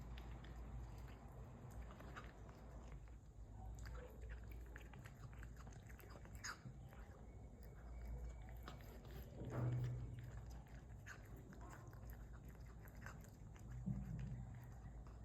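A cat eating, with faint irregular chewing and crunching clicks over a low steady hum.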